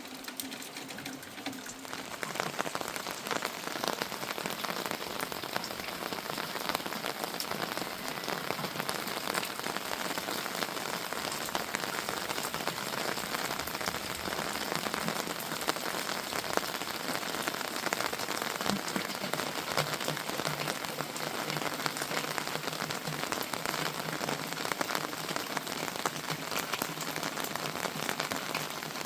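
Heavy rain falling steadily, a dense patter of drops hitting a surface. A faint low hum under it stops about two seconds in.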